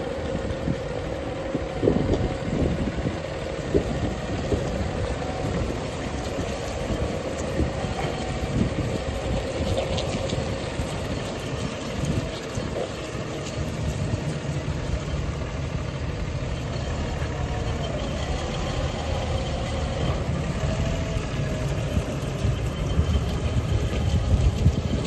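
New Holland T7-210 tractor's six-cylinder diesel engine running steadily with a light whine, its low rumble growing heavier about halfway through.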